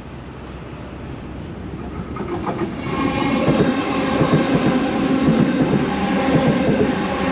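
Sydney Trains M set (Millennium) electric multiple unit passing through the station, growing louder over the first three seconds as it approaches, then running past loudly and steadily.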